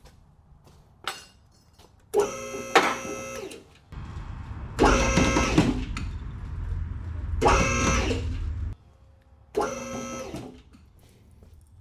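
An electric motor whining in four short bursts of about a second each, with a low rumble under the middle two.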